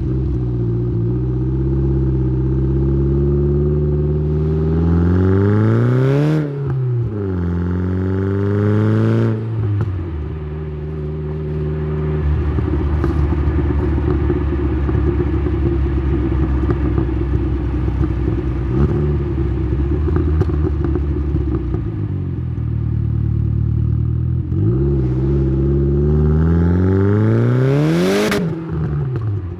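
Tuned turbocharged Saab 9-3 B204 four-cylinder heard at the exhaust, pulling hard with a rising note through one gear. There is a short break and drop in pitch about six seconds in, then it climbs again. It eases off and runs at a steady note through the middle, then pulls hard once more to a peak near the end, with a brief hiss at each peak.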